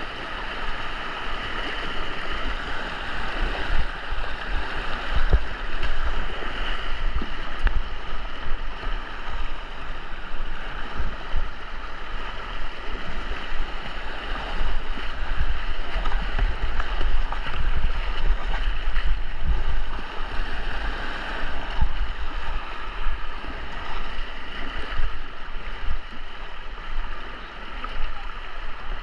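Rushing white water of a river rapid around a kayak, with splashes and uneven wind rumble on the microphone.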